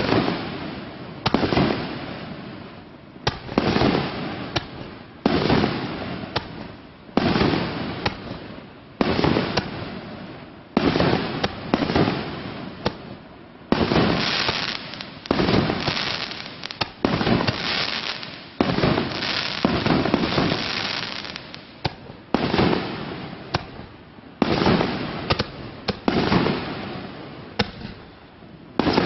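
Klasek "Vlad" 36-shot, 50 mm-calibre fireworks battery (cake) firing its shells one after another, roughly one every two seconds. Each shot is a sharp bang followed by a fading rush of sound, and the shots come thicker and almost run together in the middle.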